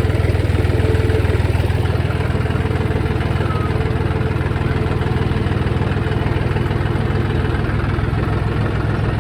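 Tractor's diesel engine running steadily at an even speed, with a fast, regular firing pulse.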